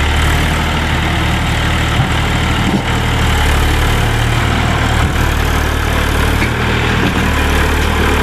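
Eicher 333 tractor's diesel engine running at a steady speed.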